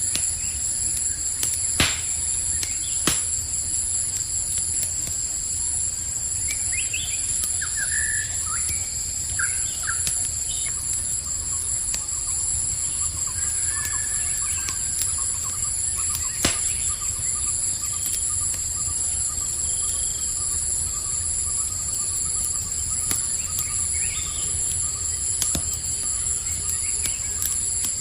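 Campfire crackling with a few sharp pops over a low steady rumble, under a continuous high trilling chorus of crickets. A few short bird chirps come about a third of the way in.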